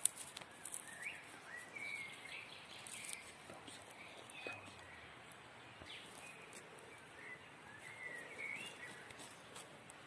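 Birds chirping in short, bending calls, in one cluster about a second in and another near the end, over a faint outdoor background with scattered small clicks.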